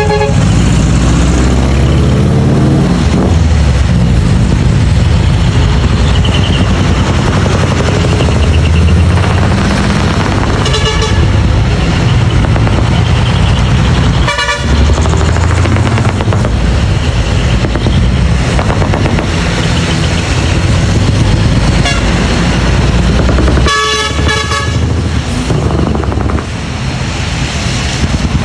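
Diesel engines of decorated Japanese trucks (dekotora) running loudly through their mufflers, with several short air-horn toots, the longest a little after twenty seconds in.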